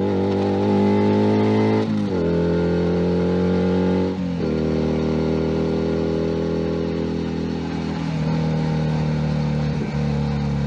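Junak M11 Cafe's 125 cc single-cylinder engine under way. Its pitch climbs for about two seconds, then drops sharply twice, as at upshifts, at about two and four seconds in. It then holds steady at cruising revs and eases off slightly near the end.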